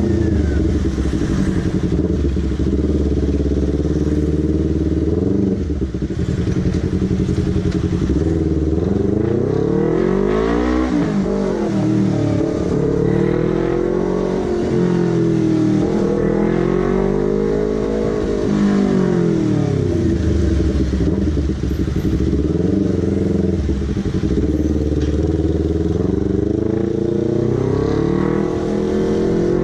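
Honda CBR250RR motorcycle engine and exhaust while riding, the pitch repeatedly rising and falling as the bike accelerates and eases off.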